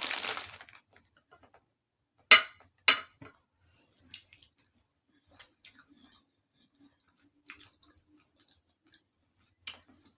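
Crinkling that stops within the first second, then two sharp clicks a couple of seconds in and faint, scattered chewing and mouth noises as a chicken wing is eaten.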